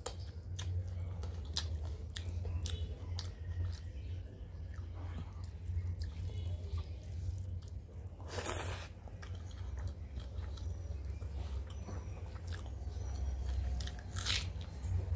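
Close-up chewing and mouth noises of a person eating rice, dal and fried vegetables and fish by hand: many small wet clicks and smacks, with two louder mouthfuls, one about halfway through and one near the end. A steady low hum runs underneath.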